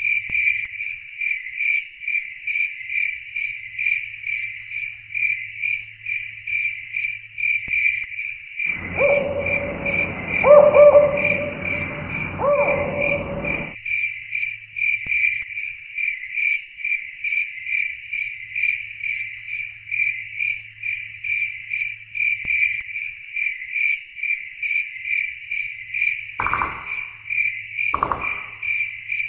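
Insects, cricket-like, chirping steadily and rhythmically at about four chirps a second. About nine seconds in, a louder noisy sound with two held tones lasts some five seconds, and near the end two short sounds break in.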